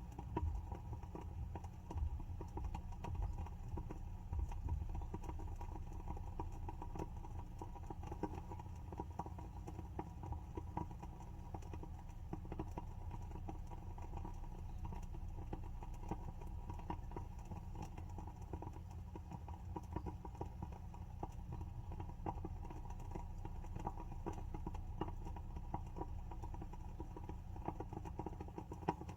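WoodWick candle's wooden wick burning, with an irregular run of small crackles and pops and a few louder pops in the first few seconds, over a steady low hum.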